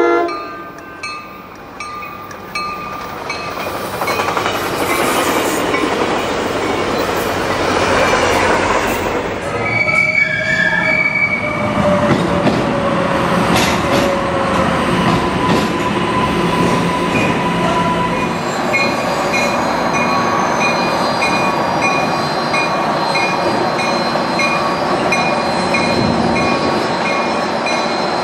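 Trains on steel rails: a commuter train's running noise builds as it approaches, just after its horn ends. Then light-rail cars run through an underground station with a steady wheel squeal. In the last third a bell dings evenly, a little under twice a second, over the running noise.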